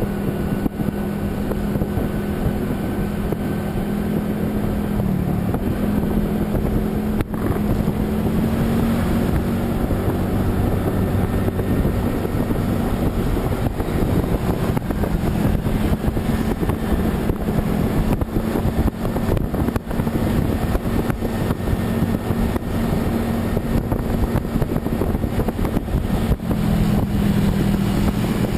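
A vehicle travelling steadily on a highway: a constant engine hum under road and wind noise. The engine note dips briefly about five seconds in and again near the end.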